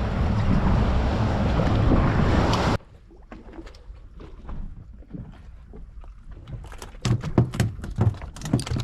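A fishing boat under way, its engine and wind buffeting the microphone making a loud, steady noise that cuts off abruptly about three seconds in. A quieter stretch of scattered knocks and clatter follows, with louder knocks near the end.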